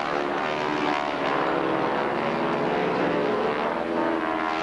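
Propeller airplane's engine running steadily overhead, its pitch rising and falling as it manoeuvres.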